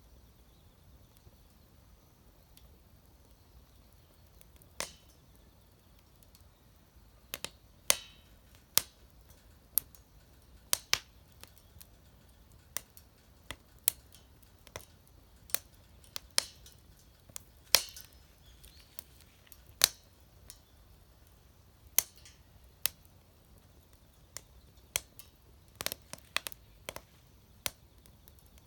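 Wood fire crackling in a homemade fire pit: irregular sharp pops and snaps, roughly one a second, some in quick clusters, over a quiet background.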